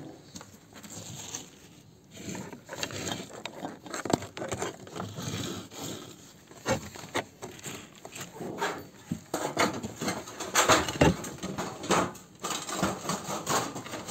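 Irregular knocks, taps and scrapes of hands-on building work with sheet metal and tools, getting busier and louder in the second half.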